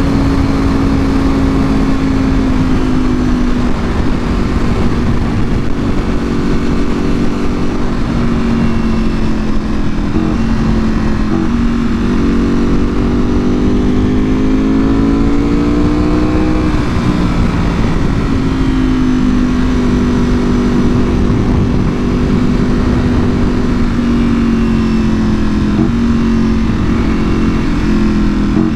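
2024 Ducati Panigale V4R's 998 cc V4 engine through an Akrapovic full exhaust while riding at moderate, varying throttle. The engine note rises steadily for a few seconds around the middle, then drops sharply, with a few brief breaks in the note elsewhere. A steady wind rush lies under it.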